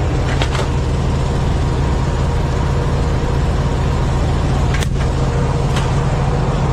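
Semi truck's diesel engine running steadily with a low, even hum, with a couple of brief clicks near the end.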